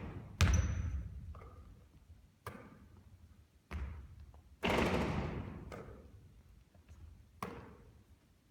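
Basketballs thudding on a gym court, a string of about seven irregular impacts, each ringing out in the hall's echo; the loudest come a little under half a second in and just before the five-second mark.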